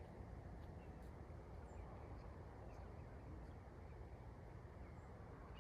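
Quiet outdoor ambience: a steady low rush of background noise with a few faint, short high chirps from distant birds.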